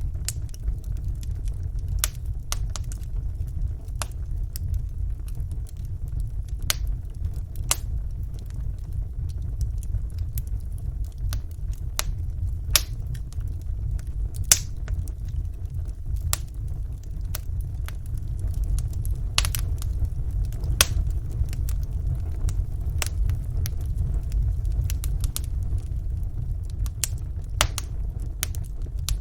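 Wood fire burning in a fireplace, with small sharp crackles and pops at irregular intervals over a steady low rumble.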